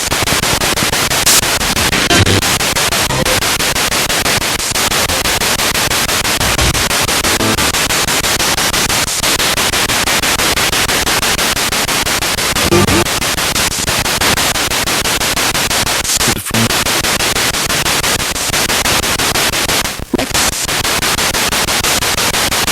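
Spirit box sweeping through radio stations: loud continuous static hiss, chopped into rapid even steps by the sweep, with brief snatches of broadcast sound and two short dropouts in the last third.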